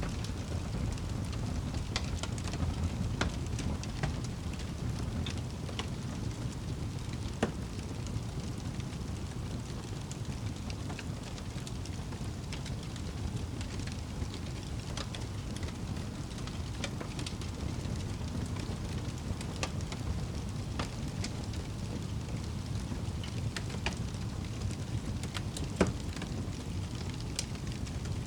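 Wood fire burning in a fireplace: a steady low rumble with irregular sharp crackles and pops scattered throughout, the loudest pops about seven seconds in and again a couple of seconds before the end.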